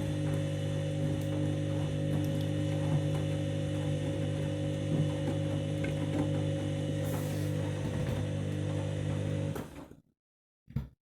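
Candy washing machine running in its main wash: a steady motor hum with faint mechanical clicking, which cuts off abruptly about nine and a half seconds in.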